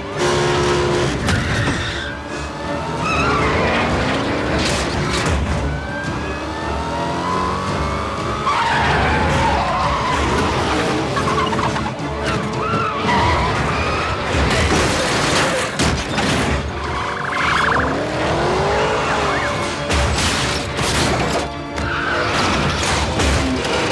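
Film car-chase sound mix: car engines revving, tyres squealing and skidding, and sharp crash impacts, over driving score music.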